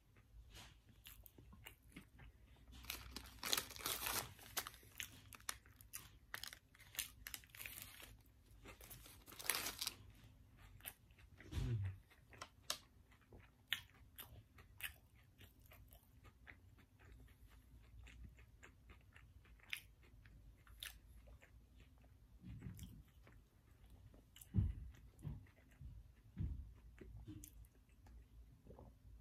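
A person biting into and chewing a crispy McDonald's hash brown close to the microphone. The crunching is dense for roughly the first ten seconds, then turns to slower, quieter chewing with scattered clicks and a few low thumps.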